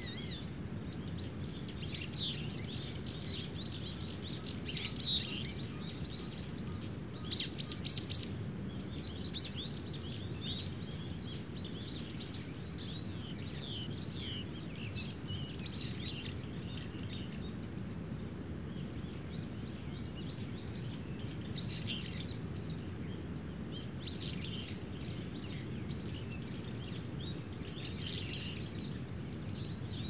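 Several small wild birds chirping and twittering on and off. The loudest calls come about five seconds in and again around seven to eight seconds in. Beneath them runs a steady low background noise.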